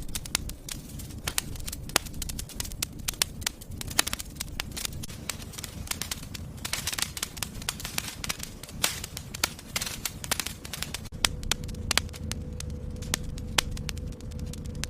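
Wood fire in a fireplace crackling and popping over a low rumble of flames, with frequent sharp snaps and a few louder pops. A faint steady whine comes in about eleven seconds in.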